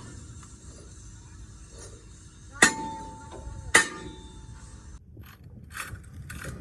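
Two sharp metal-on-metal strikes about a second apart, the steel ringing after each, followed near the end by a run of quick short rasping strokes from hand tools on metal.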